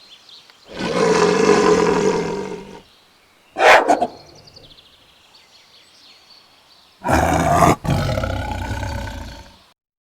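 Recorded wild-animal roars, big-cat-like: a long roar about a second in, a short sharp one near the middle, and another long roar near the end, with faint bird chirps between them.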